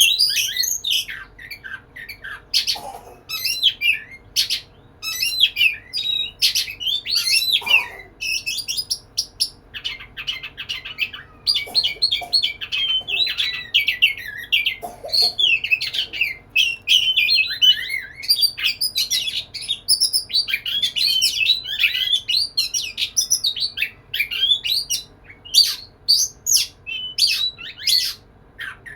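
Male oriental magpie-robin (kacer) singing without letup in quick, varied chirps and whistled notes, broken only by short pauses: a courtship song directed at a female.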